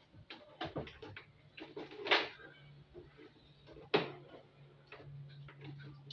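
Scattered knocks and clatter of washing machine parts being handled and fitted as the machine's body is put back on, the loudest knocks about two and four seconds in. A faint steady low hum runs beneath from about a second and a half in.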